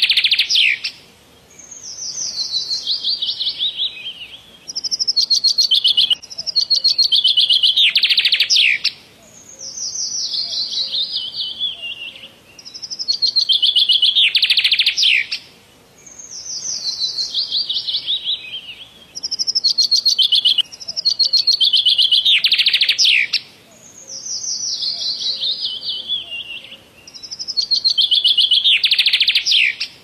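Bird song in rapid trilled phrases, repeated about every three seconds: each phrase is high-pitched, falls gradually in pitch and ends in a quick downward sweep, with short gaps between phrases.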